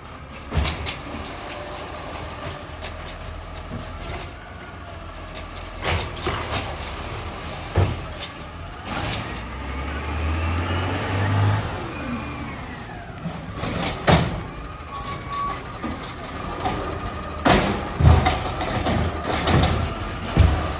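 Garbage truck engine running steadily, revving up about halfway through with a rising and falling whine above it, punctuated by several loud metallic clanks and bangs.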